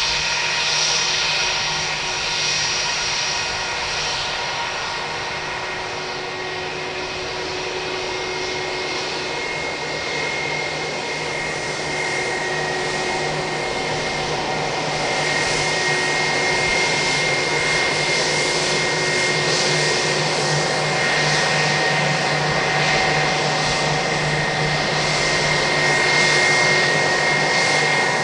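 Airbus A320-232's IAE V2500 turbofan engines running at low power: a steady rushing noise with a high whine and several fixed tones over it, swelling slightly in the second half.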